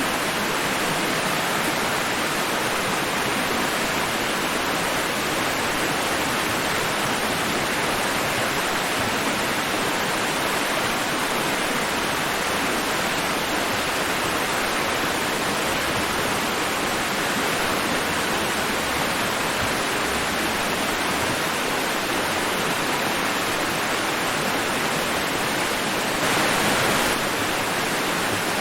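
Steady rushing white noise of an ocean-waves sleep track, an even wash with no separate breaking waves. It swells slightly for about a second near the end.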